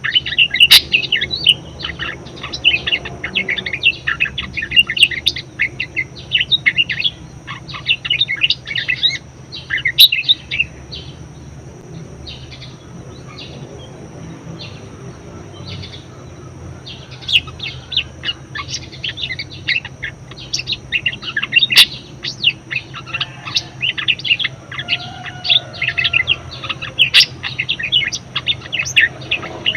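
Budgerigar chattering and warbling in rapid strings of short, high chirps. The chirping thins out for several seconds in the middle, then picks up again densely, over a faint steady hum.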